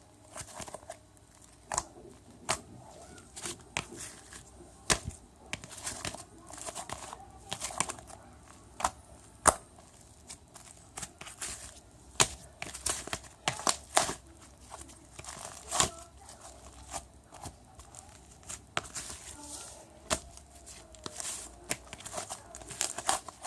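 Irregular crinkling and rustling with scattered sharp clicks, as of something being handled and crumpled at close range.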